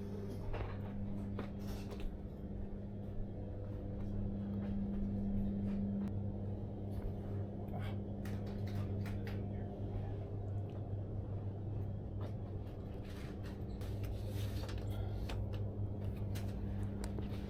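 Steady low electrical hum inside an SJ high-speed train carriage, with scattered light clicks and knocks.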